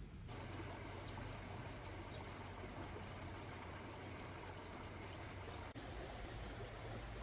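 Steady rush of flowing water, with a few faint high ticks over it.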